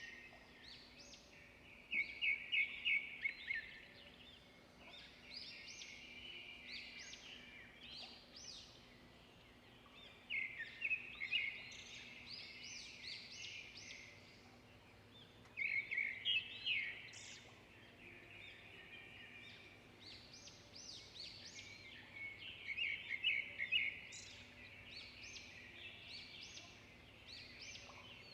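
Songbirds chirping and singing, with loud rapid trilled phrases breaking in about every six to eight seconds between quieter twittering.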